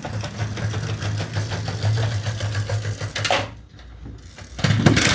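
Small toy trucks running along a plastic toy track, a fast whirring rattle of little wheels over the track for about three seconds. This is followed by a quieter stretch and a few loud knocks near the end.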